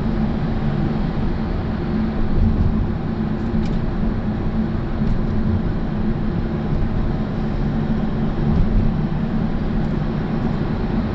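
Steady engine hum and road noise inside a moving car's cabin.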